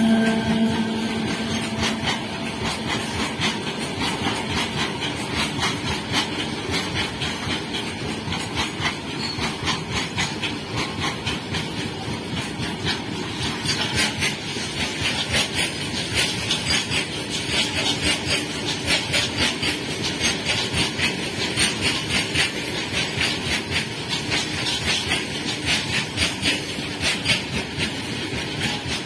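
Freight train of open box wagons rolling past close by, hauled by an electric locomotive: a steady rushing rumble with a rapid, rhythmic clatter of wheels over the rail joints, a little sharper from about halfway through.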